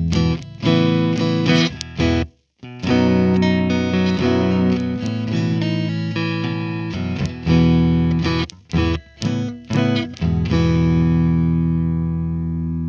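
Electric guitar played through a Mesa Boogie Mark IIC+ amp model, pitch-shifted down with the plugin's transpose, playing chugging riffs with sharply stopped chords. Near the end one low chord is left ringing and slowly fades.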